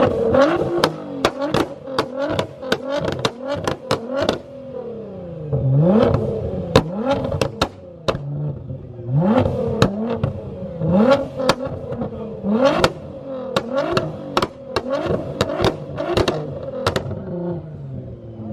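High-performance car engine revved hard over and over, its pitch climbing and dropping on each blip. Sharp exhaust pops and bangs crack out between and on top of the revs.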